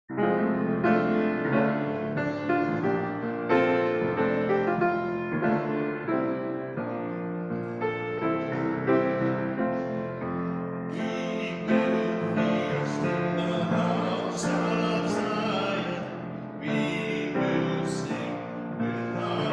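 Piano-led church music starting the closing hymn: sustained chords, growing brighter and fuller about eleven seconds in.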